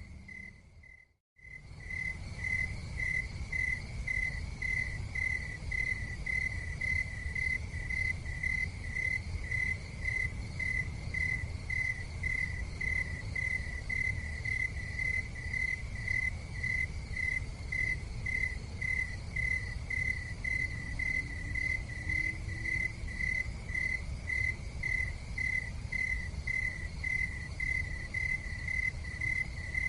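A cricket chirping steadily, a single high pulsed note repeating at an even rhythm of about two chirps a second, over a steady low rumble. The sound cuts out completely for a moment about a second in, then resumes.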